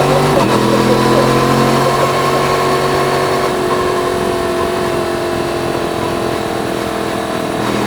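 Yamaha MT-10's crossplane inline-four running under the rider, with the exhaust note heard onboard. It pulls steadily at first; about two seconds in the deep part of the note drops away and the revs sink slowly as the bike runs off throttle, and near the end the throttle comes back on.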